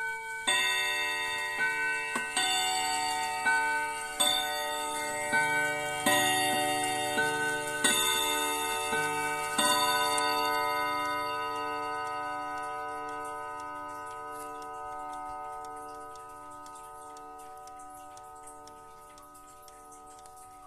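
East German (GDR) mantel clock chiming: about a dozen struck tones of different pitches over the first ten seconds, then a long ring-out that fades slowly with a pulsing beat, with faint ticking underneath.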